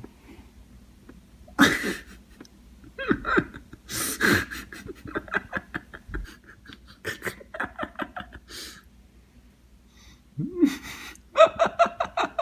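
A person's voice in short breathy bursts, like laughing and panting, with a few quiet gaps.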